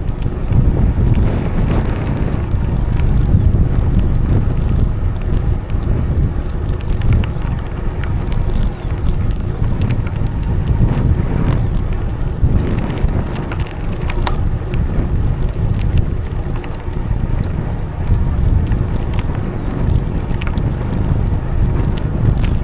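Wind buffeting the microphone over the rumble of a moving bicycle's tyres on the path, steady throughout, with a few sharp clicks from bumps.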